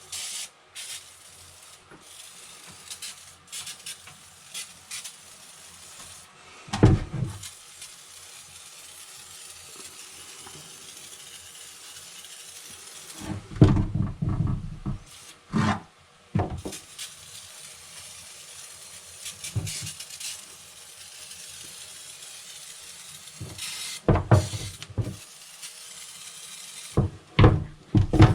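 Intermittent knocks and clattering handling noises in clusters, with a faint steady hiss between them.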